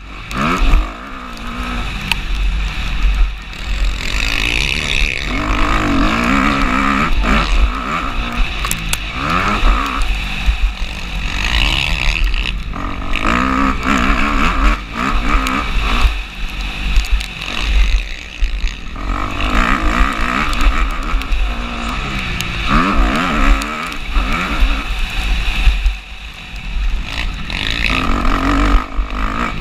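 Motocross bike engine revving hard and shifting, its pitch climbing and dropping again and again, with a few short throttle-offs. Heavy wind rumble on the microphone runs underneath.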